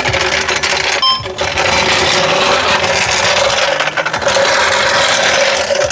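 Metal hand tools clattering and rattling, as when rummaging through a toolbox, in a dense run of small clicks and clinks with a brief break about a second in.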